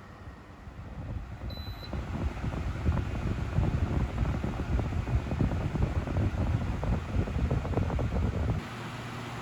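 A single short beep, then an electric circulator fan running with its airflow hitting the microphone in a loud, gusty rumble. About a second before the end the gusting drops off to a steadier, quieter whoosh with a faint hum.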